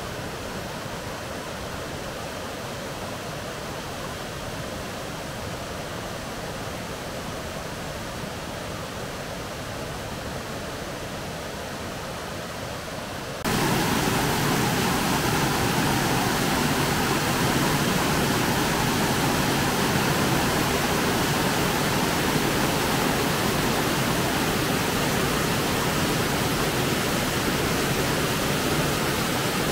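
Steady rush of flowing water, a stream or waterfall, that abruptly becomes louder and fuller about halfway through.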